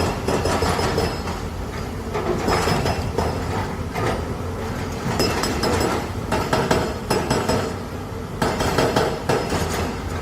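Heavy excavator at work: a machine rumbling steadily beneath repeated metallic clanking and clinking that comes in bursts every two to three seconds.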